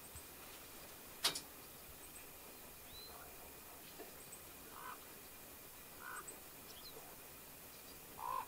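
Scattered short bird calls, among them a quick rising chirp about three seconds in, over faint background hiss, with one sharp click about a second in that is the loudest sound.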